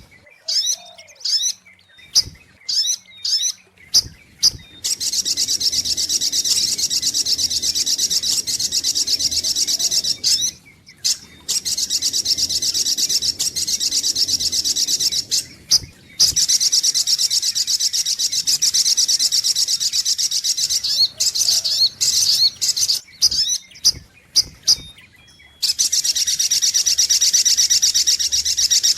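Spiderhunter (sogok ontong) calls, used as a lure call: a few separate short, sharp, high calls in the first seconds, then long runs of rapid high-pitched chattering, broken by short pauses about ten, sixteen and twenty-five seconds in.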